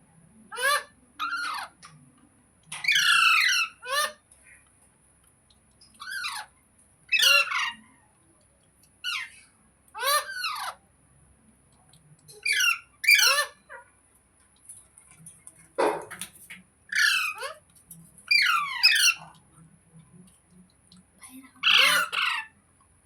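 Parrot squawking: short harsh calls, singly or in quick pairs, every second or two, each sweeping down in pitch.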